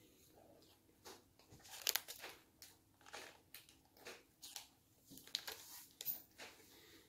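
A person chewing crunchy food close to the microphone: a run of irregular crunching chews, roughly two a second.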